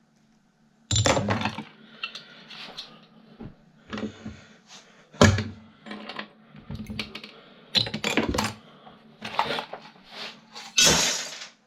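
Small metal and plastic parts from dismantled desk fans clinking and clattering as they are dropped into sorting piles and containers: irregular clatters a second or so apart, the loudest about five seconds in, with a longer rattle near the end.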